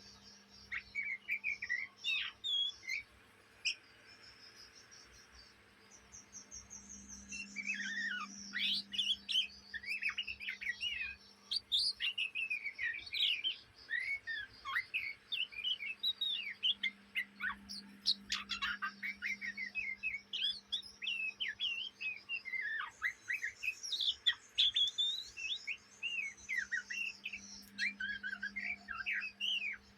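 Young oriental magpie-robin (kacer) twittering in its rapid 'ngriwik' subsong: quick, varied chirps and short warbles, scattered at first and then almost nonstop from about a quarter of the way in. A steady low hum runs underneath.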